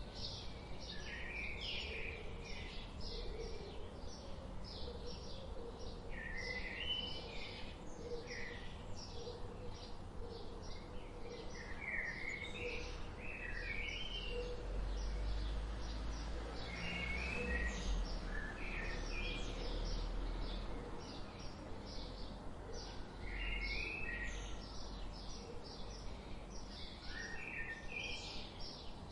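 Songbirds chirping: one keeps up a steady run of short, high chirps about three a second, while another sings short warbled phrases every few seconds. A low rumble swells underneath around the middle.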